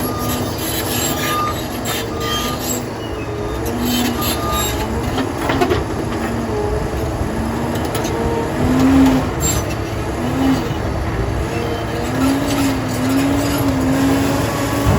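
Liebherr 746 crawler dozer working, its diesel engine running under a steady rumble while the steel tracks squeal in wavering, rising and falling tones, with scattered clanks.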